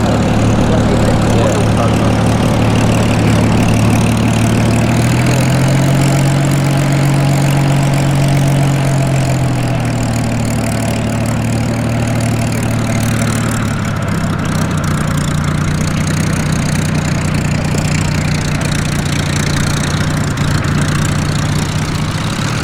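Piston engines of a formation of Spitfire and Hurricane fighters running steadily in a flypast. Their pitch rises about five seconds in and slides back down a few seconds later as aircraft pass.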